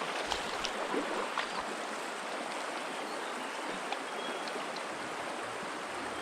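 Creek water running over rocks: a steady rushing hiss of flowing water, with a few faint ticks.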